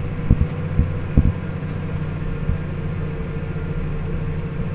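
Engine of the vehicle towing a low loader, running steadily at a gentle road speed. There are a few knocks in the first second or so, then an even hum.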